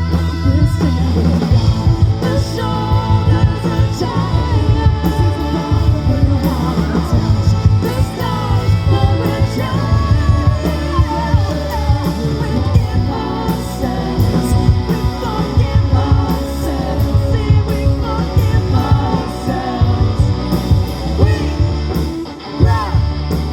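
Live amplified rock band playing a song, with a wavering lead melody over a steady bass line.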